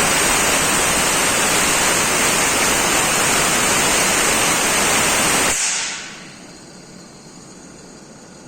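Blast of compressed air from an air gun spinning up a removed alternator to test its bearings: a loud steady hiss that cuts off sharply about five and a half seconds in, leaving a faint steady sound.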